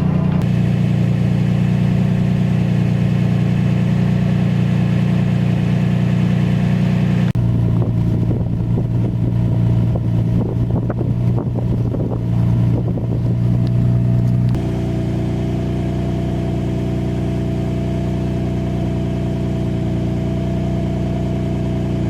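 Nissan 350Z's 3.5-litre V6 idling shortly after a cold start in freezing weather. The idle changes pitch about seven seconds in and again about halfway through, with some uneven fluttering noise between those two changes, then settles into a steady idle.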